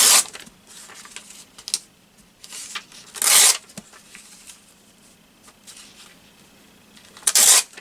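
Thin paper being torn by hand in three short rips, one near the start, one about three seconds in and one near the end, with quieter paper handling between them.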